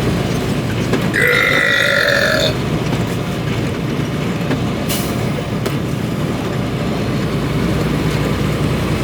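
Semi truck running down the road, a steady low drone heard from inside the cab. About a second in, a loud held tonal sound lasts about a second and a half, and a short click comes near the middle.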